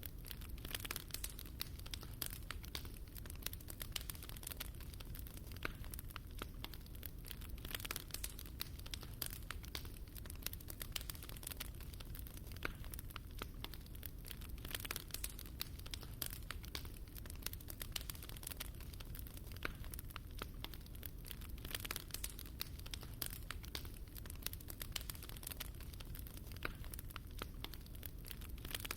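Fire burning in a fireplace, crackling with many irregular small pops and snaps over a low steady rumble.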